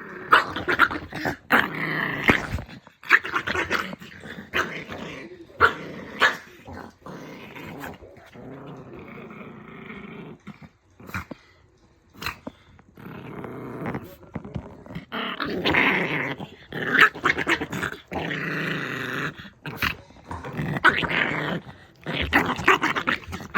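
A dog growling angrily in repeated rough bouts a second or two long, broken by short pauses, with a quieter stretch about eight to twelve seconds in.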